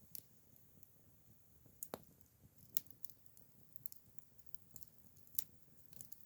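Acacia-wood campfire crackling: faint, irregular sharp pops and snaps, the loudest about three seconds in and again about five and a half seconds in, over a low hiss.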